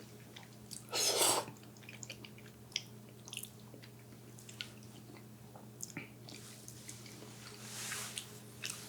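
Close-miked eating of Korean-style Chinese food: scattered small wet clicks and chewing sounds, with a short, louder rush of noise about a second in and a softer one near the end. A faint steady hum sits underneath.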